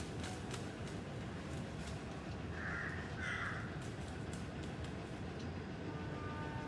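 A bird gives two short, harsh calls in quick succession about two and a half seconds in, over a steady low background rumble.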